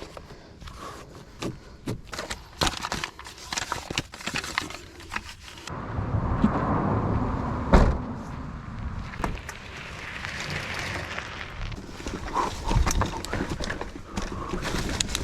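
Mountain bike rattling over rough trail: rapid clicks and knocks from the chain and frame as it hits roots and rocks. About six seconds in, a louder steady rush of tyre and wind noise sets in, with one heavy thump near eight seconds.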